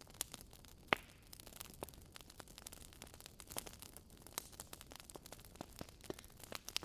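Fireplace fire crackling: frequent irregular pops and snaps over a faint steady hiss, with one sharper pop about a second in.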